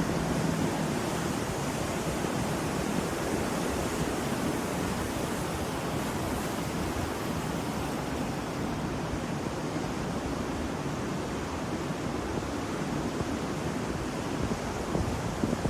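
Ocean waves washing on a shore: a steady wash of surf noise with only slight swells in loudness.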